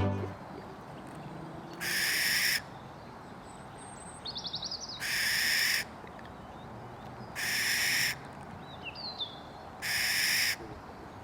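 Barn owl screeching four times, each a harsh, hissing shriek under a second long, about two and a half seconds apart. Brief quick chirps from small birds come in between.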